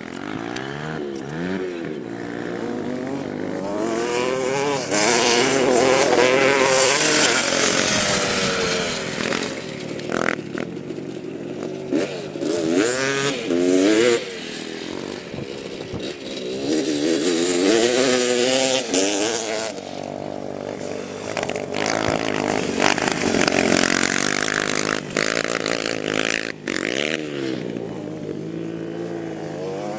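Small motorcycle engine revving hard and easing off over and over, its pitch rising and falling many times as it is ridden and jumped, passing louder and fainter.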